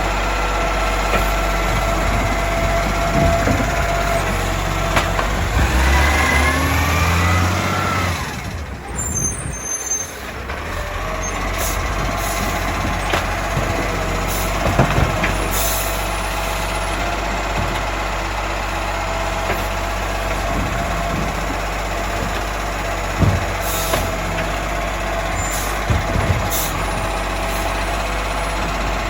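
Euro 5 garbage truck's diesel engine running with a steady whine, its pitch rising for a couple of seconds about six seconds in, then dropping away briefly before settling back into a steady run. A few short knocks come later on.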